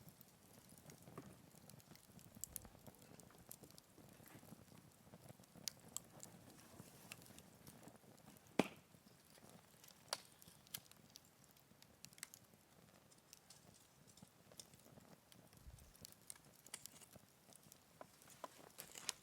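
Wood fire crackling faintly, with scattered sharp pops and ticks; the loudest pop comes about eight and a half seconds in.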